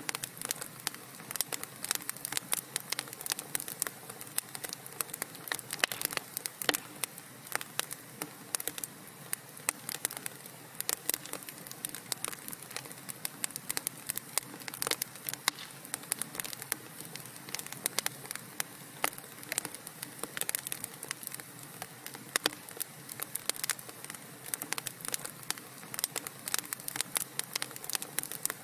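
Wood fire crackling in a fireplace: a dense, irregular stream of sharp pops and snaps over a soft steady hiss of burning logs.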